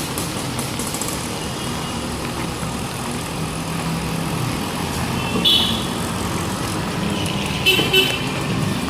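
Steady city street traffic noise with vehicle horns: one short honk about five and a half seconds in, then two quick honks near the end.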